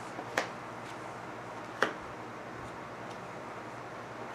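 Three sharp, separate clicks of tarot cards being handled, snapped and flicked as they are shuffled and drawn, over a faint steady hiss.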